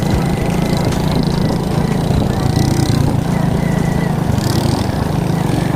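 Alpha moped's single-cylinder four-stroke engine running steadily under way, with two short hissy rustles high up about halfway through.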